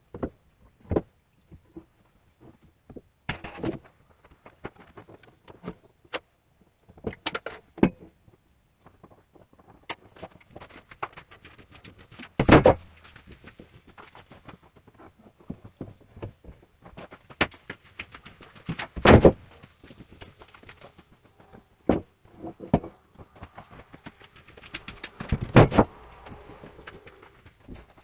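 Beams being handled and set down: scattered knocks, clunks and rattles, with three loud thumps about 12, 19 and 25 seconds in.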